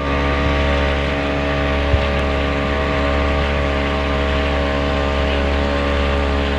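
Small motorboat's engine running steadily under way, a loud, even low drone with wind and water noise over it. A single short click about two seconds in.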